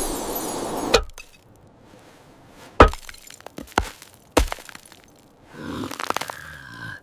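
A loud rushing noise that cuts off abruptly about a second in, then three sharp cracks or knocks with small clicks between them, and a fainter drawn-out sound near the end.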